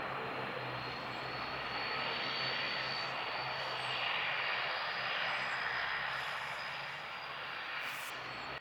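Jet airliner's engines running: a steady rush of noise with a thin, high whine held throughout, swelling slightly in the middle.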